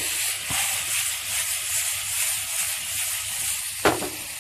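Finely chopped chicken sizzling steadily in hot coconut oil in a frying pan, with one sharp knock against the pan near the end.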